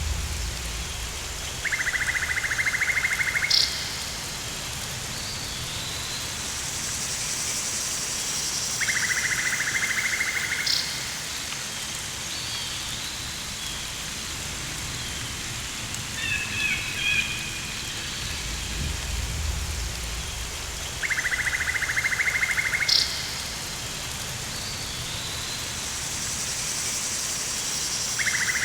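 Rainforest ambience: a steady hiss of rain, with a finely pulsed buzzing animal call, about two seconds long, coming back four times. A few bird chirps come near the middle, followed by a low rumble.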